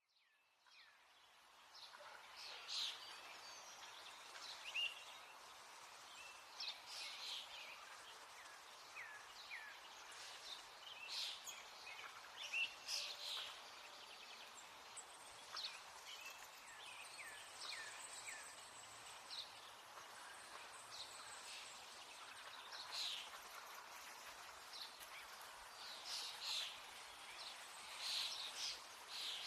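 Birds chirping: many short, high calls scattered throughout over a steady faint hiss, fading in over the first couple of seconds.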